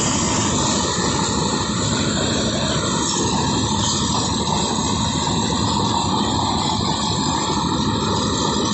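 Engine of a rice threshing machine running steadily.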